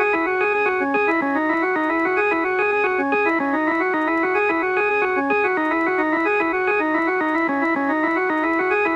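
Electronic organ-style keyboard playing a quick tune of short notes that repeat in a steady pattern.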